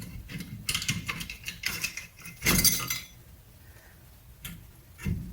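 Metal clinking and clattering of brake parts and tools as a rear brake caliper is worked off. There is a louder scrape about two and a half seconds in, then a single knock near the end.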